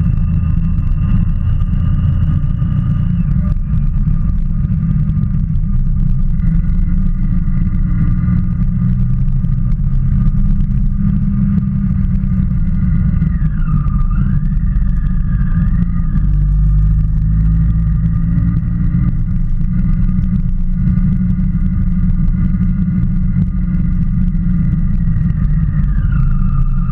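A motorcycle under way at a steady pace, with heavy wind rumble on the microphone over the engine. A steady whine dips and recovers in pitch about halfway through, and shifts again near the end as the speed changes.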